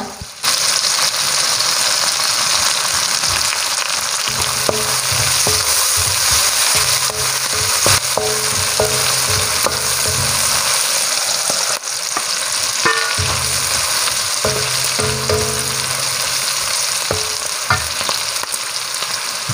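Chilli, shallot and garlic sambal with salted fish sizzling in hot oil in a stainless steel wok, stirred with a wooden spatula that scrapes against the metal. The steady sizzle starts sharply about half a second in.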